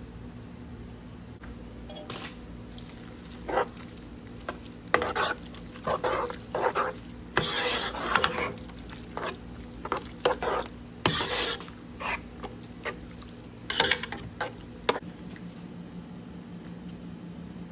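Utensils scraping and clinking against a dish in short, irregular strokes, as when food is stirred or scooped, over a steady low hum.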